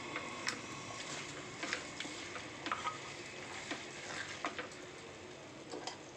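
Chicken pieces sizzling in an aluminium pot as they are sautéed in masala, with a steady frying hiss. A wooden spatula stirring them scrapes and knocks against the pot at irregular moments.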